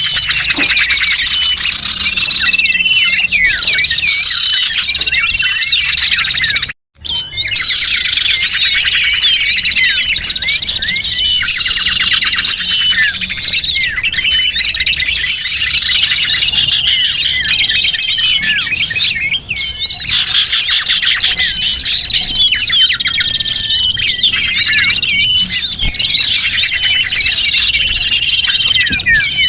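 Dense chorus of small songbirds chirping and trilling without pause, a bird-lure (pikat) recording meant to draw small birds in. The sound cuts out for a split second about seven seconds in.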